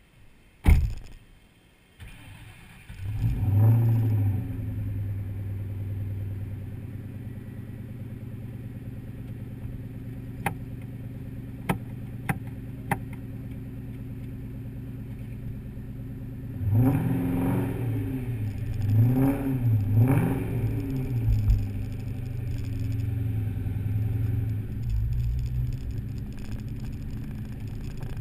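2003 SVT Mustang Cobra's supercharged 4.6-litre V8 starting after a loud knock, flaring up and settling to a steady idle. A few sharp clicks come during the idle. About two-thirds of the way in the engine is revved several times, each rev rising and falling, before running on steadily as the car moves off.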